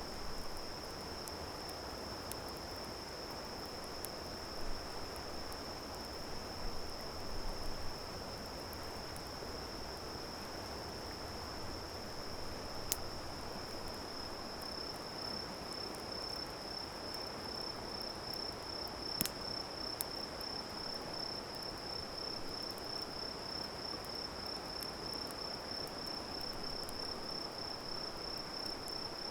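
An insect singing one steady, high-pitched note that turns into a rapid pulsing about halfway through. A few sharp pops from the campfire stand out over a soft steady hiss.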